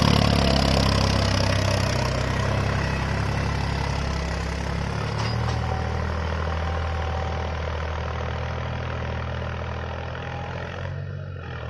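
Tractor engine running steadily while pulling a plough, growing gradually fainter.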